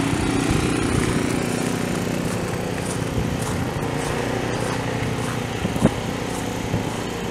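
A small engine running steadily at an even pitch, slowly fading, with a brief sharp click about six seconds in.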